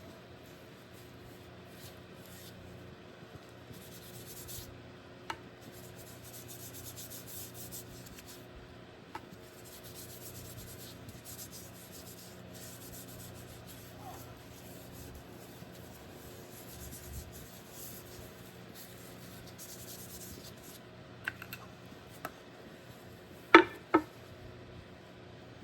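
Rubbing or sanding strokes on a wooden hammer handle, heard as patches of scratchy hiss that come and go, with a few small clicks and two sharp knocks about half a second apart near the end.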